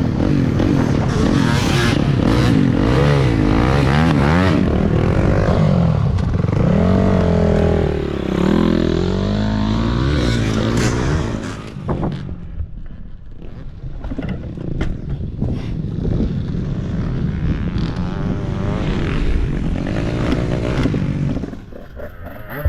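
Dirt bike engine revving up and down repeatedly on a motocross track, the pitch rising and falling with the throttle. About twelve seconds in it drops back to a lower, rougher running sound with some clatter.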